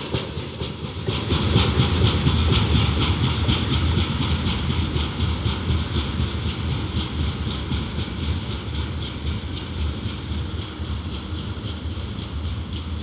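Freight train's hopper wagons rolling away on the rails: a steady rumble with a rhythmic clickety-clack of wheels over the rail joints, slowly fading as the train recedes.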